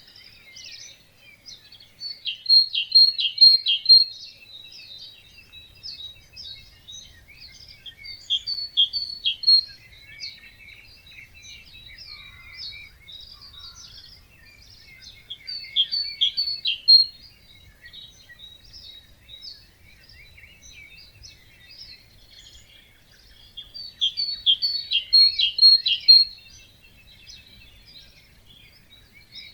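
Dawn chorus of many small songbirds singing together at a wetland. One bird stands out, repeating a loud song of quick, evenly spaced notes four times, about every seven to eight seconds.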